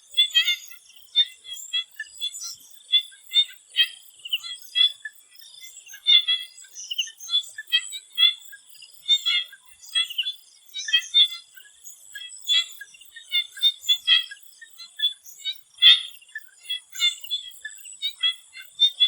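Chorus of swamp frogs calling, many short overlapping calls several times a second, over a steady high whine.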